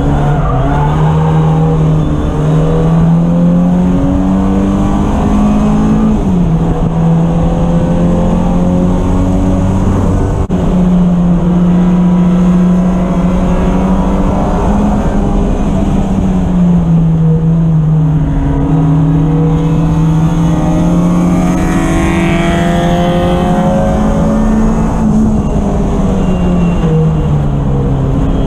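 Race car engine running hard throughout, its note climbing and falling repeatedly as the car accelerates and slows, with a sudden drop in pitch about six seconds in.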